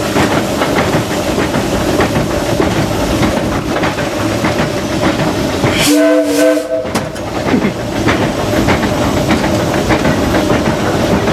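Heard from the cab of the Disneyland Railroad's No. 4 steam locomotive as it runs along the track: continuous loud running noise with rapid rattling clicks from the wheels and running gear. About six seconds in, the steam whistle gives a short toot of well under a second.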